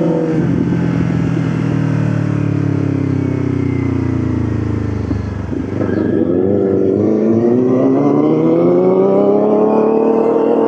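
Motorcycle engine slowing down for about five seconds, its pitch falling steadily. After a brief dip it accelerates, pitch rising steadily.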